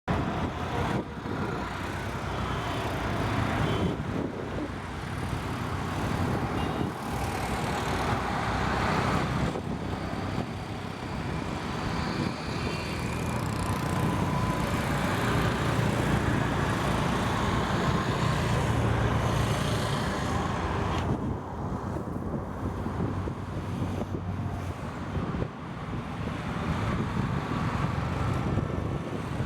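Motor boat engine running steadily as a low hum, under a broad rushing noise.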